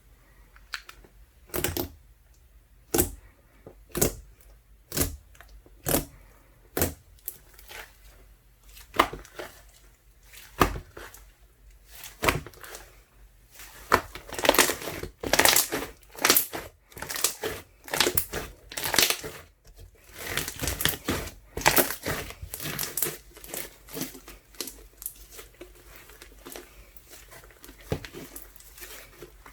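Hands squeezing and poking a jelly slime made of ice slime mixed with soothing gel: separate sticky pops about once a second at first, then a longer stretch of dense crackling and popping through the middle that thins out towards the end.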